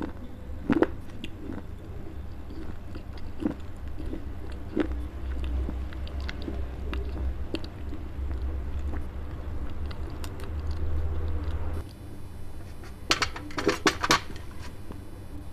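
Close-miked chewing of baked clay: small gritty crunches and crackles while a mouthful is ground between the teeth. Near the end a few louder, sharper cracks come as a hand works a clay piece on the steel plate.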